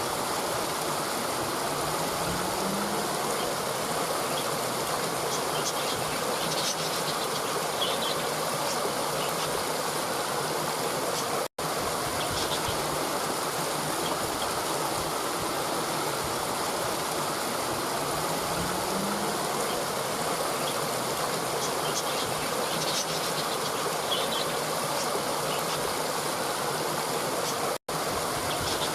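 Steady rushing of a stream, with faint high chirps now and then. The sound cuts out for an instant twice, about 11 seconds in and near the end, where the looped recording restarts.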